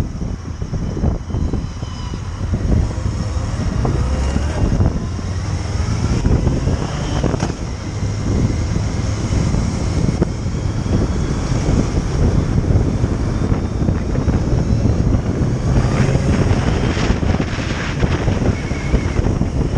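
Motorcycle engine running while riding, under heavy wind noise on the microphone. The engine note rises a few times in the first half.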